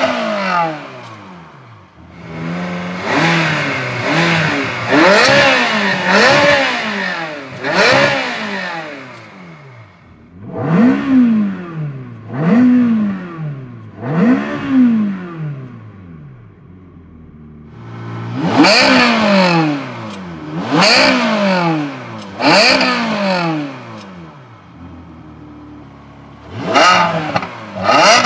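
Ferrari 360 Modena's 3.6-litre V8 through its stock exhaust, revved repeatedly: quick throttle blips, each a sharp rise and fall in pitch, in groups of three or four, dropping back to idle in between.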